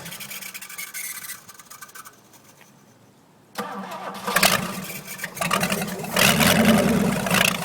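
Ford 427 FE V8 cranking over on its starter while being coaxed to start with gas. There is a short burst at the start, a pause, then a longer, louder spell of cranking from about three and a half seconds in that grows rougher toward the end.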